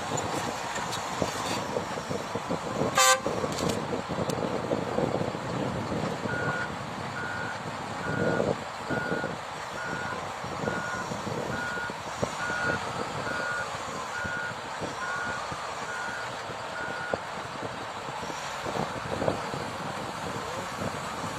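Heavy construction vehicle running, its reversing alarm beeping about fifteen times at a little more than one beep a second, starting about six seconds in. There is a sharp knock about three seconds in.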